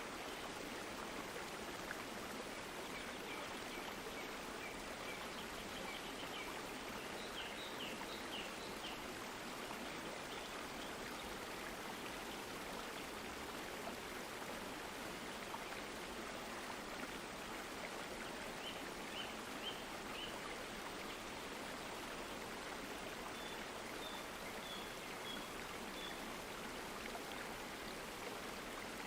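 Steady rush of running stream water, even throughout. Faint series of short high chirps sound over it a few times, early on, around two-thirds of the way and near the end.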